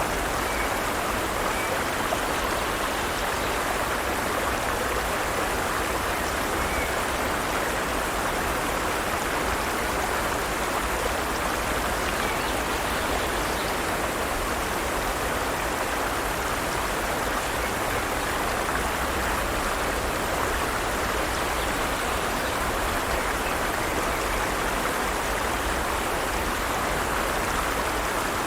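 Forest stream running steadily over rocks, a constant rush of flowing water.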